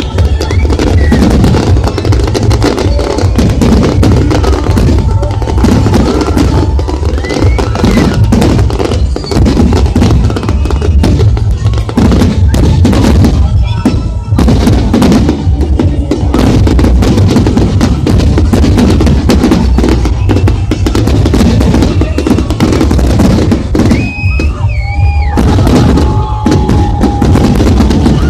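Fireworks display: a dense, continuous string of booming bursts and crackles, with a few whistling shells near the end.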